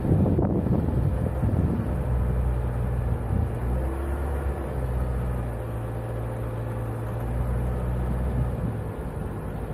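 Renault Koleos engine running at steady revs while driving off-road on sand. Wind rumble on the microphone is heard in the first second or so.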